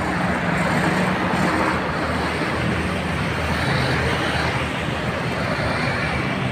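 Bus engine running close by under steady traffic noise, as a bus pulls past.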